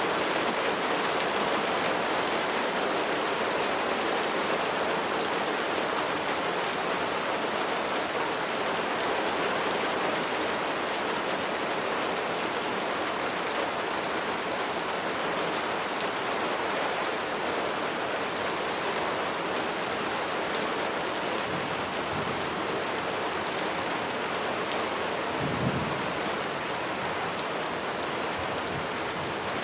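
Steady heavy rainfall, a dense even hiss of raindrops. A brief low rumble of thunder comes near the end.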